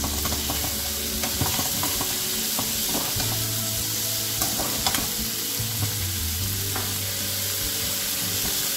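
Chopped onions, tomatoes and green chillies sizzling in oil in a nonstick kadai as a metal perforated spatula stirs them. The spatula scrapes and now and then taps against the pan over a steady frying hiss.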